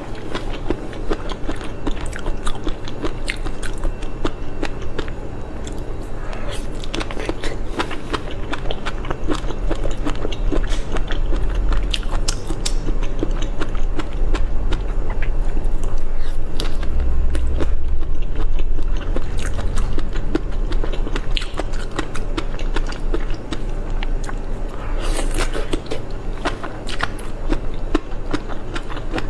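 Close-miked eating sounds of a person biting and chewing seafood, made up of many small sharp mouth clicks in an irregular run.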